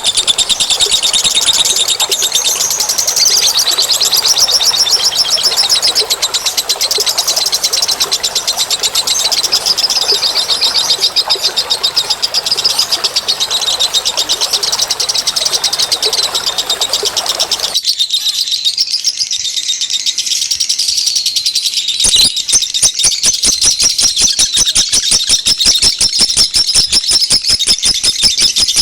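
Small birds chirping and trilling in a fast, continuous, high-pitched stream, a bird-lure recording. Partway through the background hiss drops away, and later a fast, evenly pulsed rattling call joins the chirping.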